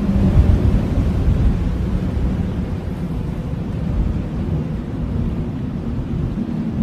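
Blizzard wind blowing hard and steadily, a deep noise that swells a little about a second in and eases slightly afterwards.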